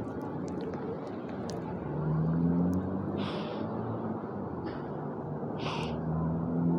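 Steady engine and road rumble from a vehicle, its engine tone rising twice. Two short hisses stand out over it, one in the middle and one near the end.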